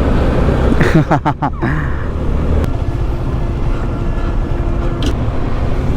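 Motorcycle riding at road speed, its engine and wind making a steady low rumble on the rider's microphone. A short voice comes in about a second in, and a steady held tone sounds for about two seconds in the middle.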